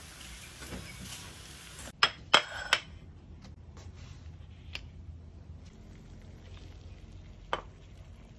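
Banana pieces sizzling in bubbling sugar caramel in an aluminium pan for about two seconds. Then three sharp knocks close together, the loudest sounds here, followed by a few scattered lighter clicks of a plastic bowl, banana leaf and metal utensil being handled as the fried banana is plated.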